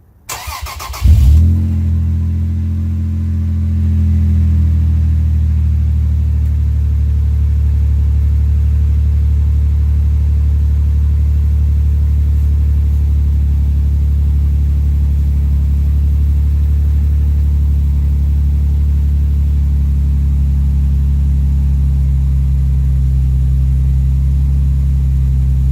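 Toyota Tacoma cold start through a Magnaflow round muffler with no tailpipe: the starter cranks briefly, the engine catches about a second in with a loud burst, then settles into a steady, deep idle with the exhaust open right behind the muffler.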